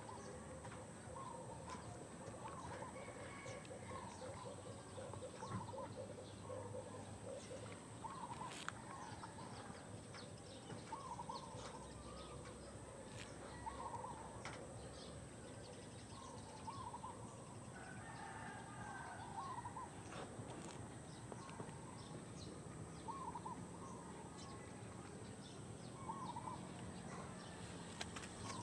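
Faint bird calls, short chirps repeating every second or two, with a run of lower calls in the first few seconds, over a steady high-pitched whine and a few light clicks.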